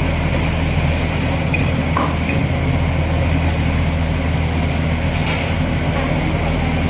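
Metal ladle stirring and scraping in a wok, with a few sharp clinks, over a steady low hum.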